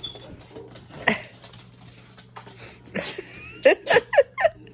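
A dog sneezing: one sneeze about a second in, then a quick run of sneezes near the end, set off by the smell of boiling vinegar.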